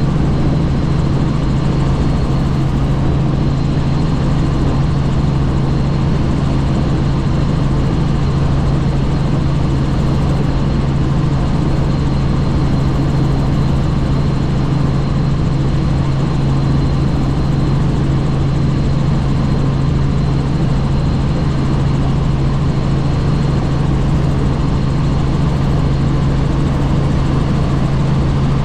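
A helicopter in flight, heard from on board: a loud, steady low drone with a thin high whine above it, unchanging throughout.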